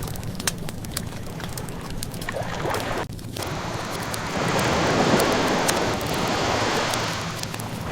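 Ocean waves washing ashore, swelling into a louder surge about halfway through, with a wood fire crackling in sharp scattered pops over it.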